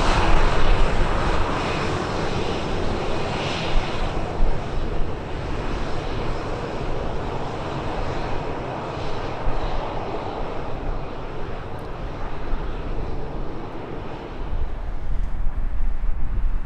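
Airliner's engines, a loud roar at its strongest in the first couple of seconds, then holding steady a little lower as the aircraft moves on.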